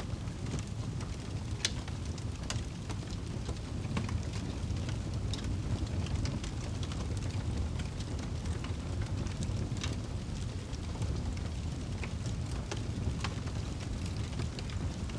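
Fireplace fire burning: a steady low rumble of flames with sharp crackles and pops at irregular intervals, a few of them louder.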